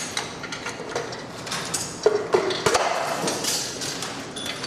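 Metal tools and engine parts clinking and knocking in quick, irregular strikes as an engine is hand-assembled, with voices in the background.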